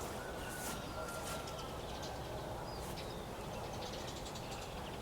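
A few faint, short bird chirps over a steady low outdoor background noise.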